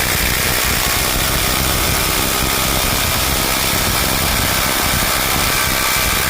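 Ryobi cordless impact driver hammering at full speed, driving a 6-inch lag screw into wood: a steady, loud, rapid impacting that runs unbroken under heavy load.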